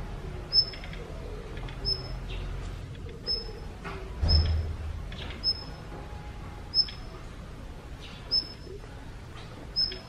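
Daurian redstart giving a short, high whistled call over and over, eight times, about once every second and a half; the uploader takes the calling for the mother bird near its grounded fledgling. A low thump about four seconds in.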